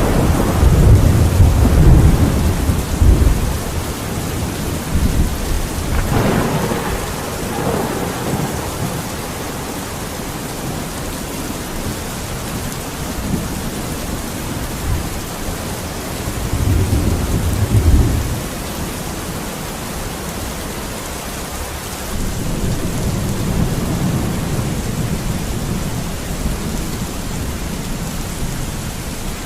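Steady rain falling, with several low rumbles that swell and fade: one at the start, one a little past halfway, and a longer, softer one toward the end.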